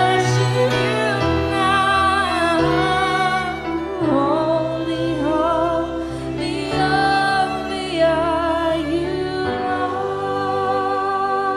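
Live worship music: a female voice singing a slow, wordless or unclear melody over sustained instrumental chords.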